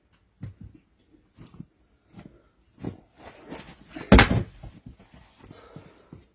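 A run of irregular knocks and thumps, with one loud bang a little after four seconds in.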